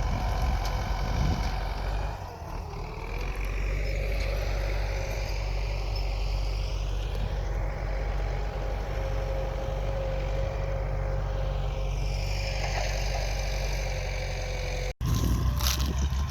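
Farm tractor engine running steadily under load as it works the field, its pitch rising and falling slowly at times. About a second before the end the sound cuts suddenly to a louder rumble with a few sharp knocks.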